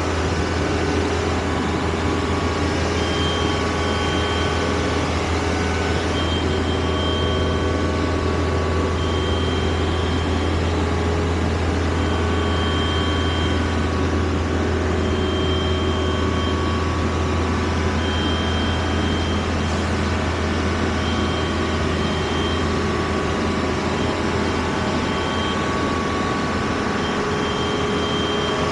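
A vehicle's engine running steadily, a constant low drone with no change in level, with a faint high tone coming and going every second or two.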